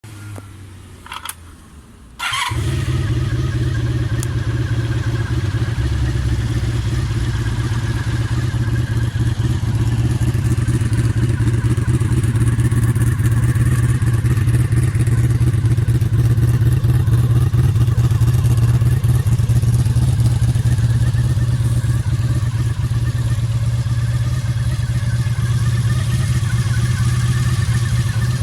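Honda VF750F's 90-degree V4 engine starting about two seconds in, then idling steadily through an aftermarket JAMA muffler, its carburettors freshly overhauled.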